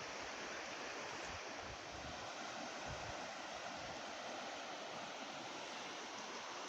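Steady outdoor wind, with low rumbling gusts buffeting the microphone now and then.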